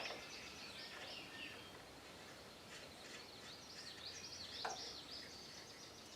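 Faint high chirps from small birds, repeated over a low background hum, with a single click about three-quarters of the way through.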